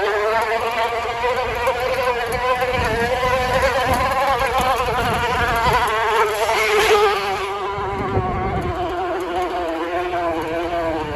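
An empty bottle fixed on a bicycle so the turning wheel's spokes flick it, giving a continuous motorcycle-like buzz as the bike is ridden. The pitch wavers slightly and eases down a little in the second half.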